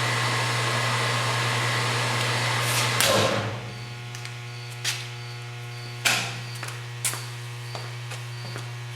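TOS 16" x 40" engine lathe running with a steady whir, until a clunk about three seconds in, after which the running noise drops away and only a steady low hum remains. A few sharp clicks and knocks follow, about once a second.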